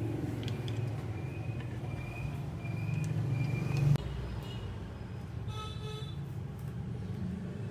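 Street traffic rumbling, swelling and then dropping off about four seconds in, with a short vehicle horn toot about two seconds before the end.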